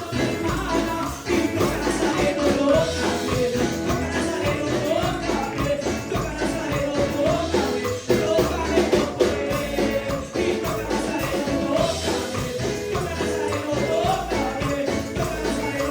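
Upbeat Pentecostal chorus music: a voice singing a wavering melody over a band with a strong bass and a shaken tambourine.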